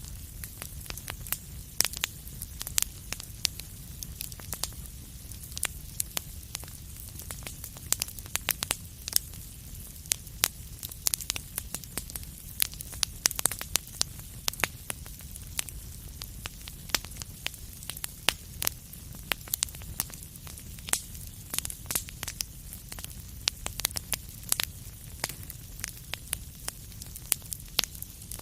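Wood fire crackling in a fireplace: frequent irregular sharp pops and snaps over a steady low rumble and a soft hiss.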